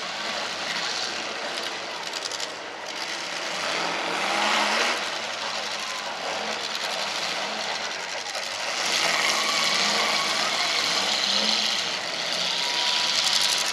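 Demolition derby cars' engines revving hard as the cars shove against one another in a tangled pack. The sound is a continuous mechanical din that swells louder about four seconds in and again from about nine seconds.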